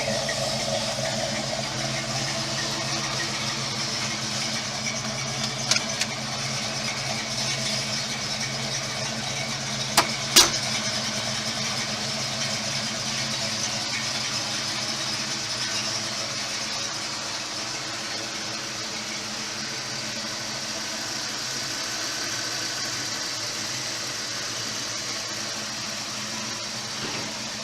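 1969 Ford Mustang Mach 1's V8 engine idling steadily. A few sharp clicks break in, the two loudest about ten seconds in.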